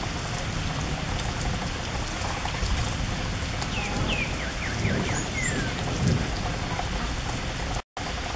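Steady rain falling on a leaf-littered yard, with the patter of individual drops. A few short high chirps come through around the middle, and the sound cuts out for an instant near the end.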